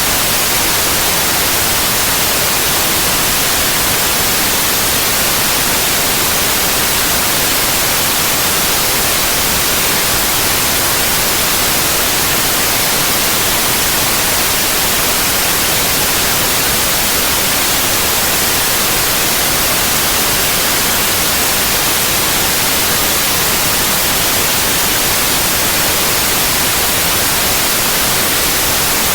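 Steady white noise: a constant, even hiss with no changes or breaks.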